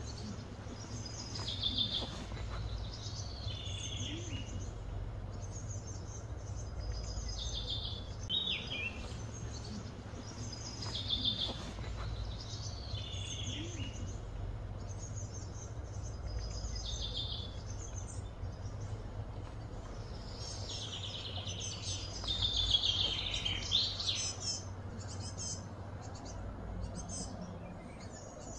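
A songbird singing short, repeated chirping phrases every couple of seconds, with a longer, louder run of song about three quarters of the way through, over a steady low hum.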